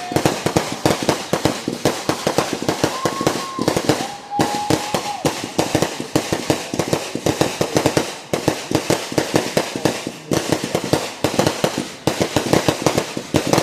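A string of firecrackers going off in rapid, continuous cracking. A few short held tones sound over it near the start and about three and four seconds in.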